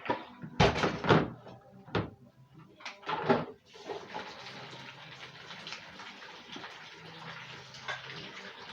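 Water running from a kitchen tap while fruit is washed, with a few sharp knocks and clatters in the first few seconds before the water settles into a steady flow.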